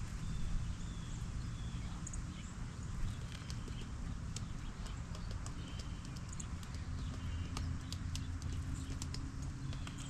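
Irregular sharp clicks and taps of a female northern cardinal's beak picking at walnut pieces on a ledge, over a steady low background hum, with a few faint short high notes.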